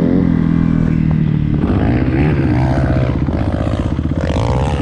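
Dirt bike engine running and revving, its pitch rising and falling. About a second and a half in, the note turns rough and pulsing.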